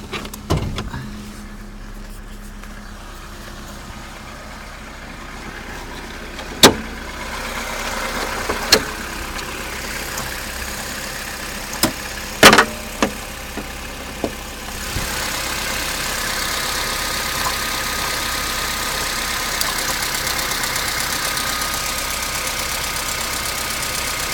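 Opel Astra G 1.4 16-valve four-cylinder petrol engine idling just after a cold start. A few sharp knocks come between about 7 and 14 seconds in, and about 15 seconds in a louder steady rattling sets in, which the owner says was not there before.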